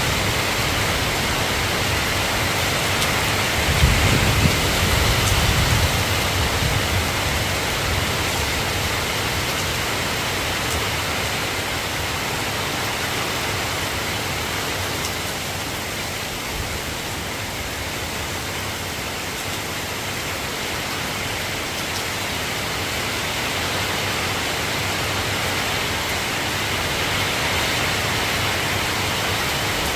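Steady rain, an even hiss of falling water. A low rumble swells briefly about four seconds in.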